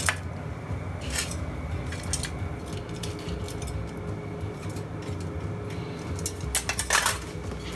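Light taps and clinks of kitchen utensils against dishes, spaced out at first, with a louder cluster near the end, over a steady low hum.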